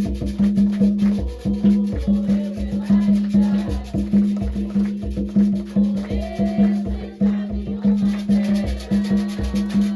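Percussion-heavy music with drums and a shaker playing a steady beat.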